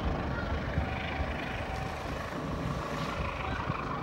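Passenger train running away into the distance, a steady low rumble with faint held tones.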